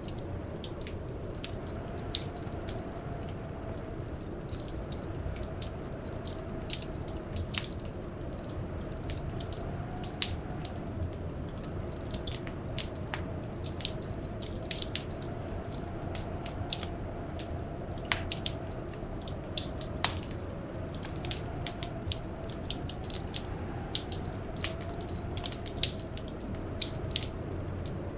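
Wood fire crackling in a fireplace: many sharp, irregular pops and snaps over a steady low background noise with a faint wavering hum.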